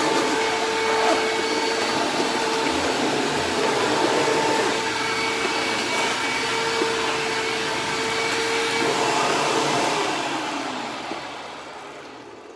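Hoover WindTunnel self-propelled upright vacuum running steadily, a motor whine with a steady hum over a rush of air. It winds down and fades over the last couple of seconds.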